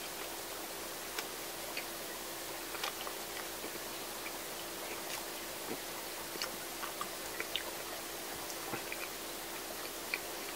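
A person chewing a soft anpan (sweet bean bun), with small scattered mouth clicks over a steady background hiss and hum.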